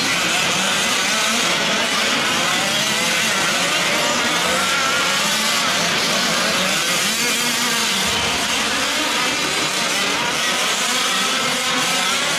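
Several 1/5-scale gas RC trucks' small two-stroke engines racing together, their pitch rising and falling as they rev up and down in overlapping whines.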